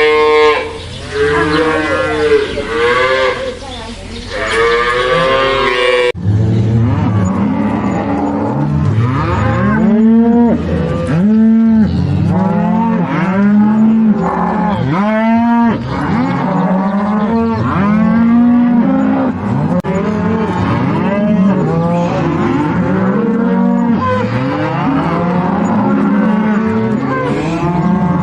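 Cows mooing, one call after another with calls overlapping. For the first six seconds or so the moos are higher-pitched; then the sound changes abruptly to a dense chorus of lower moos from several animals.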